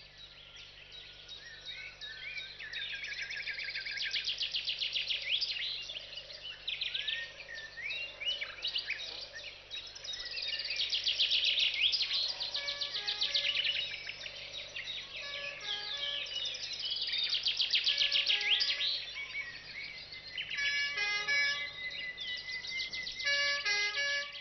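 Many songbirds chirping and trilling in fast, overlapping calls that swell and fade several times. Near the end a few short plain musical notes sound among the birdsong.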